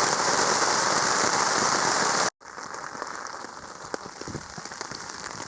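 Heavy rain falling steadily on a low tarp shelter. About two seconds in it cuts abruptly to much quieter, lighter rain with scattered faint drips.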